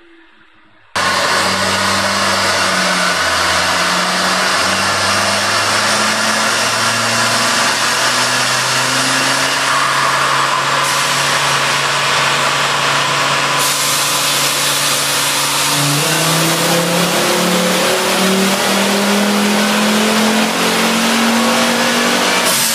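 Volvo 850 T-5R's 2.3-litre five-cylinder engine run hard under load on a chassis dyno, its pitch climbing in steps, dropping sharply about two-thirds of the way through, then climbing again. The engine sound cuts in about a second in.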